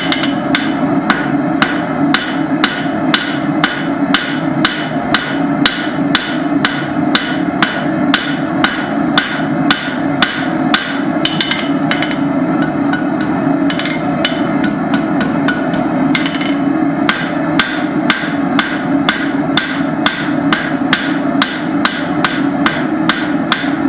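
Blacksmith's hand hammer striking hot steel bar stock on an anvil, forging a banister hook in a steady rhythm of about two to three blows a second, with a short let-up about halfway through. A steady rushing noise runs underneath.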